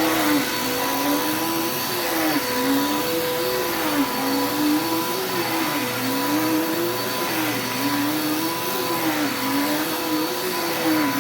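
Vacuum cleaner running on carpet, its motor pitch rising and falling about every second and a half as it is pushed back and forth.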